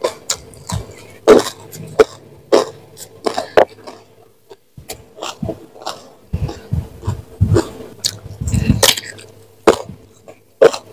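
Close-miked chewing of crunchy raw food, most likely young jengkol beans: rapid, irregular crisp crunches and wet mouth smacks, with a brief pause about four seconds in and some low thuds a little past the middle.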